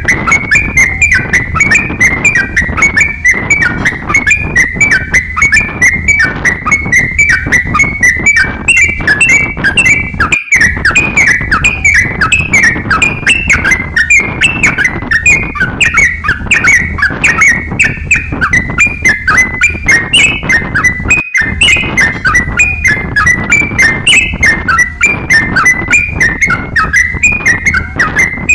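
Crokcokan songbird singing non-stop in a rapid stream of short, repeated chattering whistled notes. The song cuts out for an instant twice.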